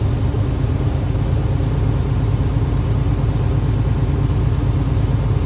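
Semi-truck tractor's diesel engine idling steadily, heard from inside the cab while it builds up air pressure for the brake checks.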